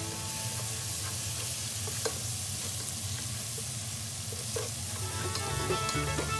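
Sliced onions and garlic paste sizzling steadily in oil in a nonstick pot while a spatula stirs them.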